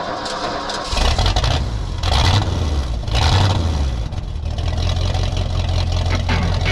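An engine running with a heavy low rumble, its level surging several times.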